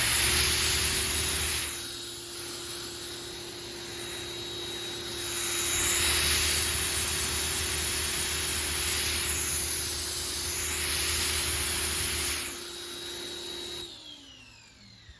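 Pressure washer spraying water through a double 25-degree nozzle tip: a steady hiss of spray over the machine's constant hum, swelling louder twice and stopping about fourteen seconds in. Splitting the flow between two nozzles leaves the spray with not a lot of pressure.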